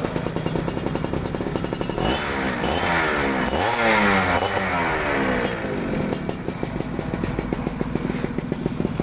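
Yamaha F1ZR's two-stroke single-cylinder engine running through a racing exhaust: idling, then blipped up and down several times from about two seconds in, then dropping back to idle.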